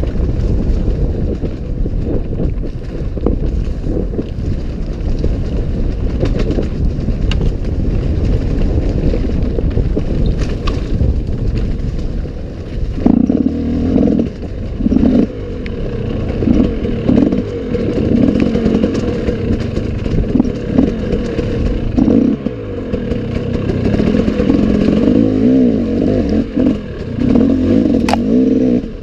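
Enduro dirt bike engine running under load, heard from on the bike with wind noise on the microphone. From about halfway, the engine note rises and falls over and over as the throttle is opened and shut.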